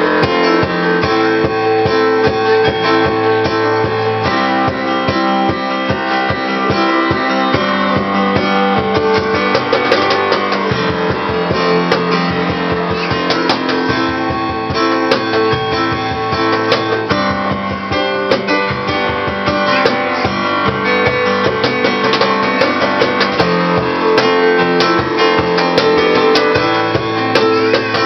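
Live acoustic music: a guitar strummed in chords over a cajon's steady hand-struck rhythm, playing without a break.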